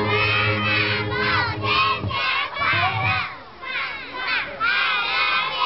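A group of young children shouting and cheering together in many high, overlapping voices. Backing music runs under them and stops about two to three seconds in.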